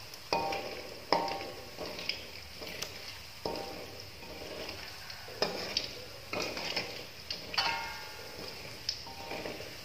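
Sliced sausages sizzling in hot oil in an aluminium wok, with a metal spatula stirring them and striking the wok in about ten irregular ringing clinks.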